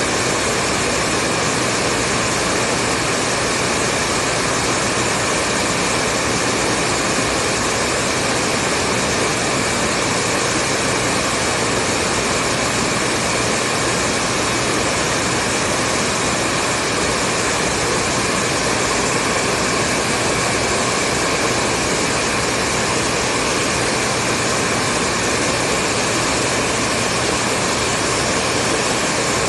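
Hair dryer blowing steadily, an even airy rush of fan and airflow with a faint hum, with no change in pitch or level.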